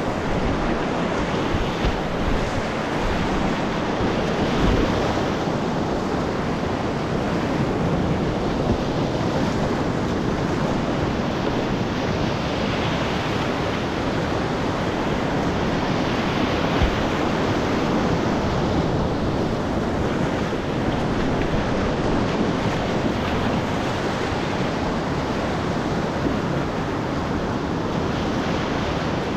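Steady rush of whitewater in a river rapid, heard close up from the kayak.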